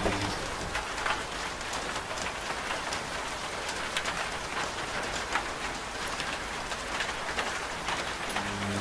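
Steady rain falling: an even hiss with scattered drop ticks. A washing machine's motor hum cuts out just after the start and comes back near the end.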